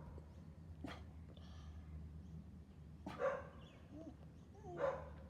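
Dogs barking in short separate barks, a second or more apart.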